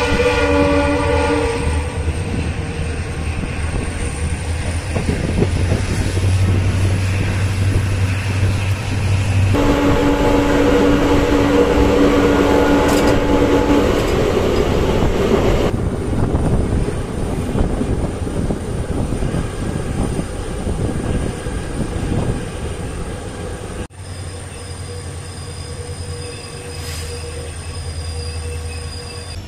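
Express train running at about 84 km/h, heard from an open coach door: a steady rumble of wheels on rail with wind rush. The train's horn sounds briefly at the start and again for about four seconds around ten seconds in. It is quieter near the end.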